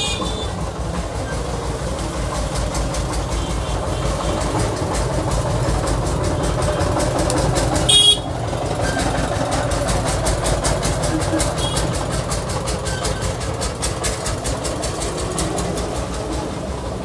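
Steady street-traffic rumble with a dense fine crackle, and a brief vehicle-horn toot about eight seconds in.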